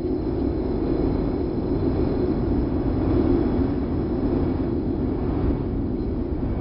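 Wind sound effect: a steady rush of wind with a low rumble, swelling slightly towards the middle.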